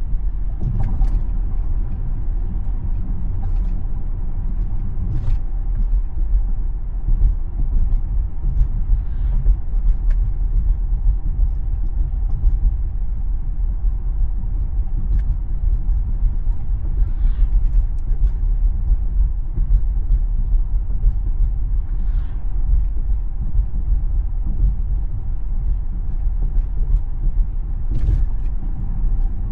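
Tesla electric car driving: a steady low rumble of road and tyre noise, with a faint steady hum and a few faint ticks.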